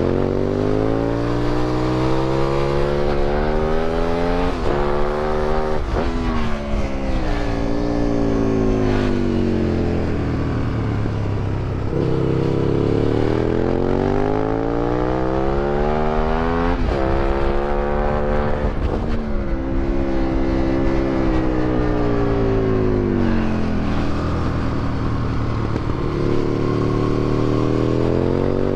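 2008 Aprilia Tuono 1000R's V-twin engine through an Akrapovic exhaust, revving hard under acceleration with quick breaks at gear changes, then falling in pitch as it slows. This happens twice, and the engine starts climbing again near the end.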